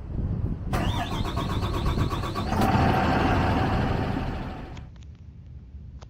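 Kalmar Ottawa T2 yard truck's Cummins B6.7 diesel engine running with a steady low rumble. A rising whine and hiss join it under a second in, grow louder, then die away about two-thirds of the way through, leaving the rumble.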